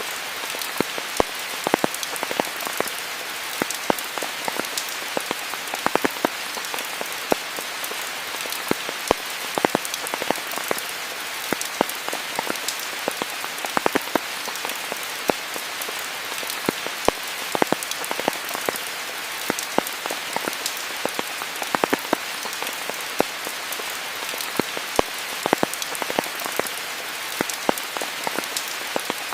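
Steady rainfall: an even hiss of rain with frequent sharp, irregular taps from individual drops striking close by.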